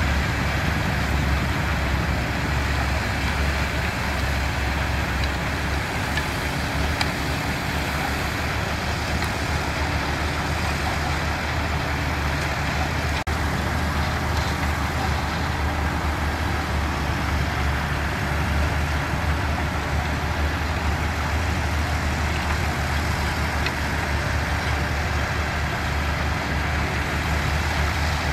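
Diesel engines of construction machinery, bulldozers and dump trucks, running steadily with a continuous low rumble.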